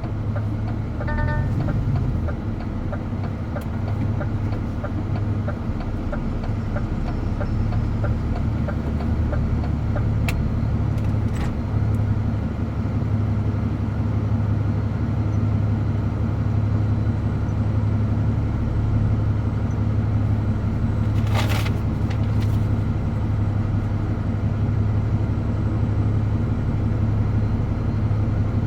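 DAF truck's diesel engine running steadily while driving, a constant low hum. A brief pitched tone sounds about a second in, and a short burst of noise comes about two-thirds of the way through.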